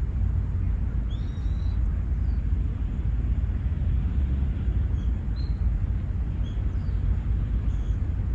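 Outdoor ambience: a steady low rumble, with a few faint, short, high bird chirps about a second in and again near the end.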